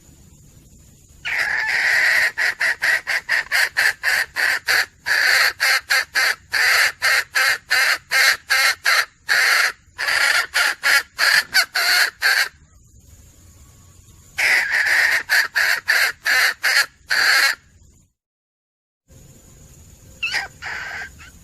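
Female junglefowl (hen) calling in long runs of rapid, harsh cackling notes, several a second, broken by short pauses. This is the hen call used as a lure for hunting junglefowl. The sound cuts out completely for about a second near the end, then a few fainter notes follow.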